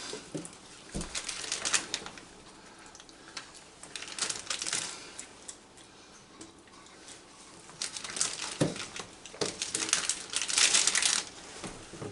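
Raccoons scrabbling and rustling at close range: bursts of crinkling and light clicking, with a soft thump about a second in and another near the end.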